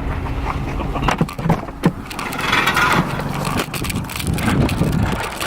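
Car running with low engine and road rumble, overlaid by short clicks and knocks and a stretch of rustling handling noise about midway.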